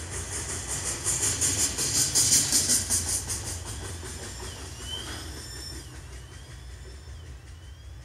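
Freight train's last cars, centerbeam flatcars loaded with lumber, rolling past with a rapid rhythmic clatter of wheels over rail joints and a hiss. The sound falls away after about three and a half seconds as the end of the train clears. A few faint wavering high squeals follow as it draws away.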